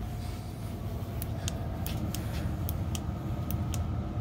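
Person moving around in a cramped basement: irregular light clicks and ticks from steps and handling, over a steady low rumble and a faint hum.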